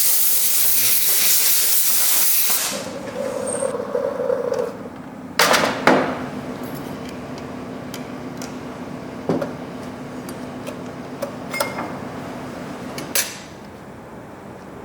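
A loud, steady hiss of spray or blown air for about three seconds. A short hum follows, then a steady machine hum with five sharp metal knocks and clinks spaced a few seconds apart.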